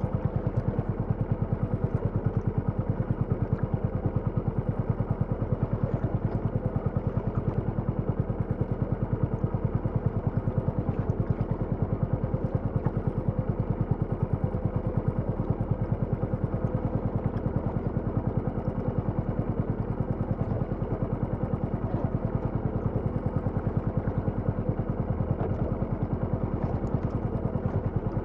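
Small engine running steadily at a constant speed, with a rapid, even beat.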